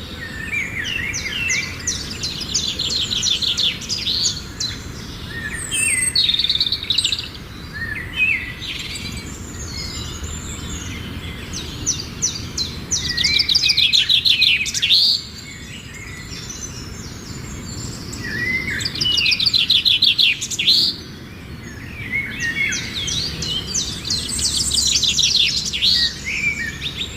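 A songbird singing: repeated phrases of fast, high trills and chirps, each a few seconds long, with short pauses between them.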